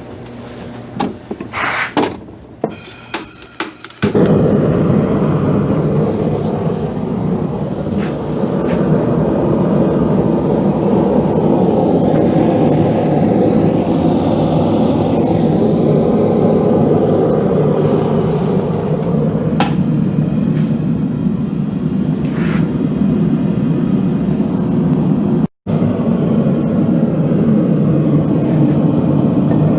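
A forge being fired up: a few clicks and knocks, then about four seconds in a loud, steady rushing noise starts suddenly and keeps running as the forge burns.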